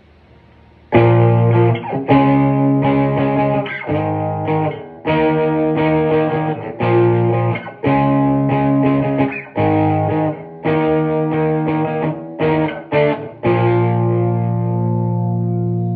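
Electric guitar played through a Marshall DSL40C all-valve combo amp: starting about a second in, a run of strummed chords with short breaks, ending on one chord left to ring. The amp is passing clean, full sound with no dropout or hiss, showing it is working again after its valves were re-biased.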